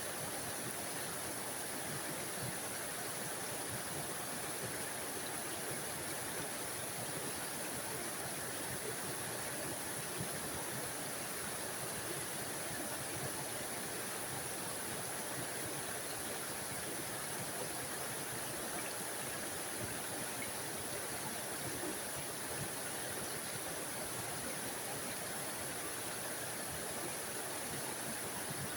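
Small forest waterfall: water splashing and running steadily over rocks in a continuous, even rush with a hissy top.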